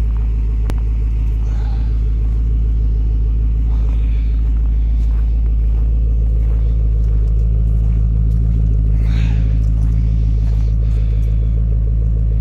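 The 6.2-litre LS3 V8 of a 2015 Camaro SS 1LE idling steadily, just after a cold start in deep frost.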